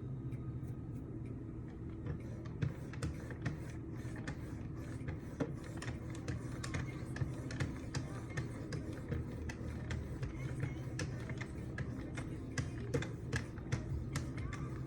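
Irregular light clicks and taps from a Wicked Edge guided knife sharpener as its stone or strop arms are worked against the blade.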